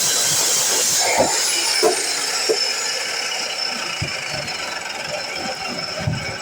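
DeWalt miter saw's motor and blade whining as they wind down after a cut, the high whine sliding lower and slowly fading, with a few light knocks from the work being handled.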